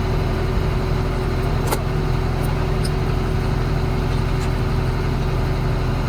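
An engine idling steadily, with one sharp click about two seconds in.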